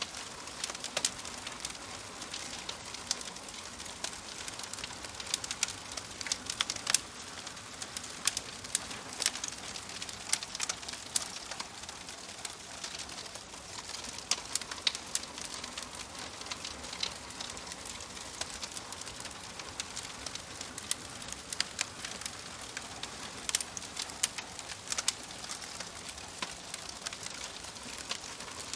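Wood fire crackling in a fireplace: a steady soft hiss under irregular sharp pops and snaps, some louder than the rest.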